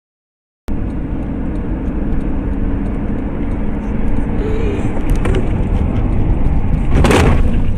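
Silence, then the abrupt start of a moving vehicle's steady low road and engine rumble, with a brief loud rushing noise about seven seconds in.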